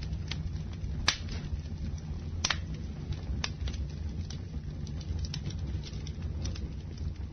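Campfire burning, a low steady rumble of the flames with scattered sharp crackles and pops of the wood, the loudest about a second in and again near 2.5 seconds.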